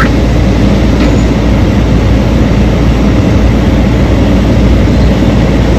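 Heavy diesel mining machinery running steadily, a loud low drone with no breaks.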